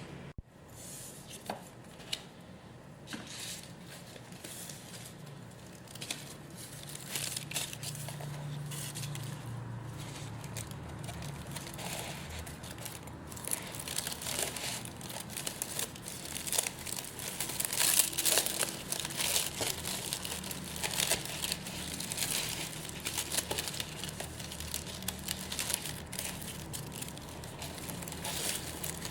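Packaging being handled while orders are packed: irregular crinkling and rustling with some tearing, busiest a little past the middle.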